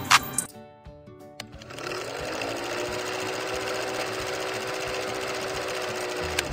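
Old film projector sound effect: a steady, fast mechanical clatter with a faint hum, starting about a second and a half in. A brief musical sting dies away just at the start.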